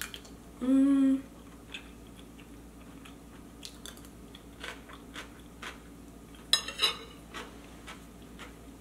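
Close-up mouth sounds of a person eating a spoonful of curry rice: a short hummed "mm" about half a second in, then quiet chewing with small wet clicks, and a couple of sharper clicks a little past the middle.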